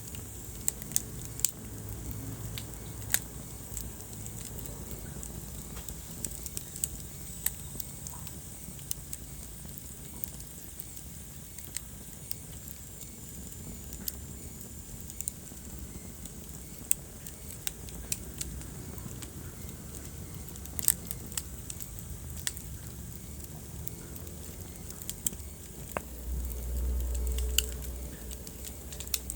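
Wood fire crackling in a fireplace: irregular sharp pops and snaps over a steady low rumble of burning. Near the end a louder low rumble swells for about two seconds.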